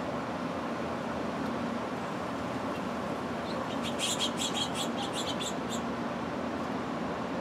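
A bird gives a rapid run of about ten short, high chirps, starting about four seconds in and lasting about two seconds. Behind it is a steady outdoor background noise with a low hum.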